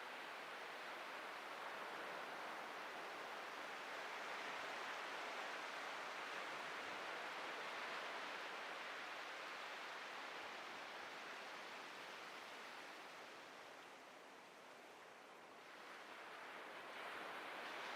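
Atlantic surf washing onto a beach as a steady hiss of breaking waves. It eases off about three-quarters of the way through, then builds again near the end.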